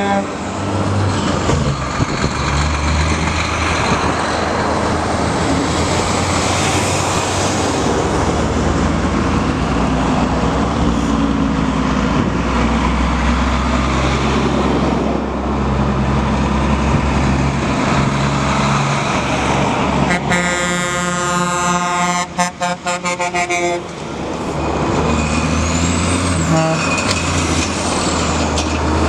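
Diesel trucks driving past with their engines running. About two-thirds of the way through an air horn sounds, first held and then in several quick short blasts.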